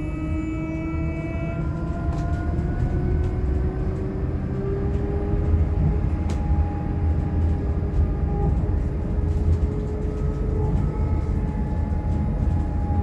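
Electric traction motor of a Scania K310IB bus converted to electric drive by Eletra, whining and slowly rising in pitch as the bus gathers speed. Under it runs a steady low rumble with a few sharp rattles.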